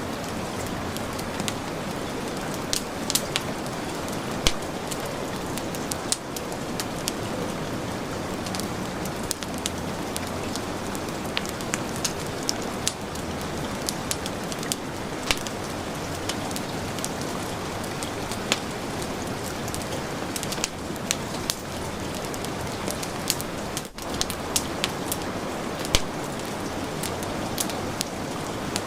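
Steady heavy rain, with a wood fire crackling: sharp irregular pops scattered over the even rush of the rain.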